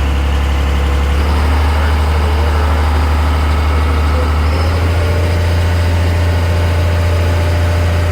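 Boat engine running steadily with a deep hum, which shifts slightly in pitch about a second in and again about halfway through.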